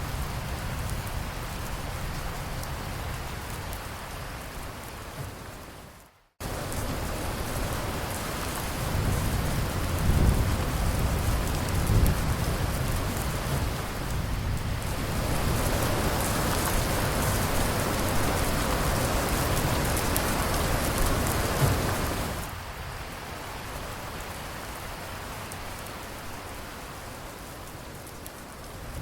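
Steady rain falling, which fades out to a brief moment of silence about six seconds in and starts again abruptly. Low rumbles of thunder come through shortly after; the rain is heaviest in the middle and steps down to a lighter fall for the last few seconds.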